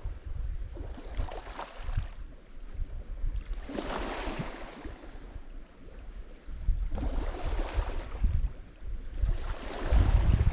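Lake Michigan waves breaking on the shore, a surge of splashing and wash roughly every three seconds, the biggest about four seconds in and near the end. A steady low wind rumble on the microphone runs underneath.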